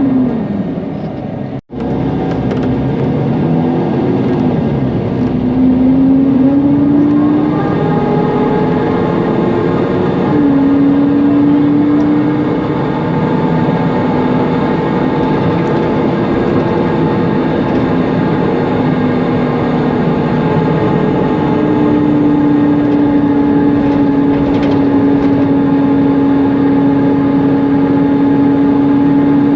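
Mercedes-Benz Conecto NGT city bus heard from inside, its OM936G natural-gas engine and loud cooling-fan whine together as a pitched hum. It slows at first and cuts out for an instant, then pulls away with rising pitch and a gear change of the ZF automatic gearbox. It finally settles into a steady hum.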